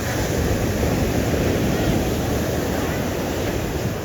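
Ocean surf washing onto the beach, swelling and easing, with wind rumbling on the microphone.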